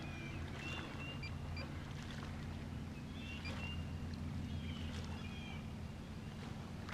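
Quiet outdoor ambience from a kayak: a steady low hum, with short high bird chirps coming now and then.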